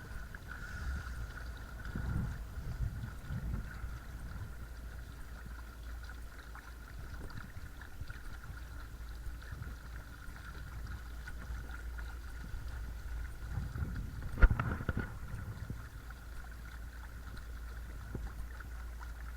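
Small electric trolling motor running steadily, with a faint high whine over a low rumble of water and wind. A single sharp knock comes about three-quarters of the way through.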